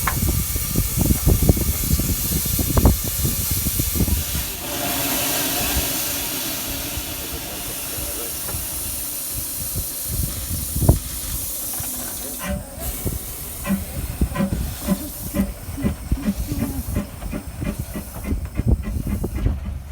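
Narrow-gauge steam locomotive hissing steam, with wind buffeting the microphone. A steadier, fuller rush of steam comes in about four seconds in, and short irregular knocks follow in the second half.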